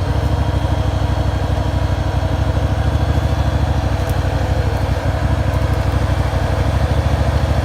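Off-road buggy engine idling steadily with an even, rapid pulse.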